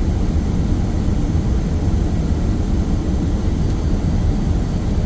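Steady low rumble of airflow and engines heard inside the cockpit of an Airbus A330 on final approach.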